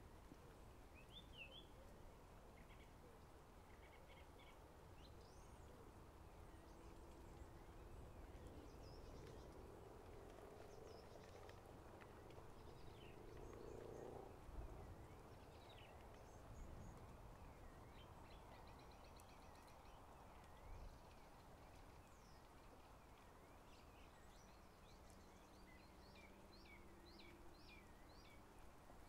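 Near silence, with scattered faint bird chirps and calls over a low, steady background rumble.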